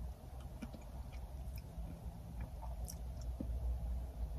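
Faint chewing and small wet mouth clicks as soft baby-food ravioli in marinara sauce is eaten, over a low steady hum.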